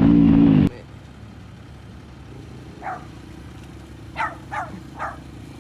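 A dirt bike engine runs loudly and stops abruptly under a second in. Then a dog barks four times in short yaps, about three seconds in and then three in quick succession, over a faint steady hum.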